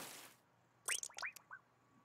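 A cartoon bird gives four quick squeaky chirps about a second in, each sweeping sharply in pitch. This comes after a hiss that fades out at the start.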